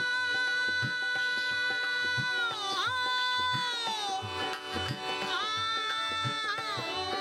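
Rajasthani folk music: a long held melody note that bends downward in pitch twice, over a steady hand-drum beat.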